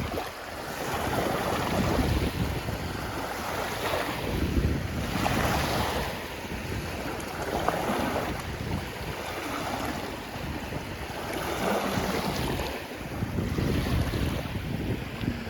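Small lake waves washing onto the shore in surges every two or three seconds, with wind gusting on the microphone.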